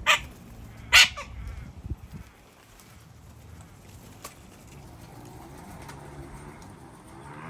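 Corellas in a flock screeching: two short, loud, harsh screeches about a second apart, followed by a few quieter calls and clicks. The flock then goes on with low, soft chatter.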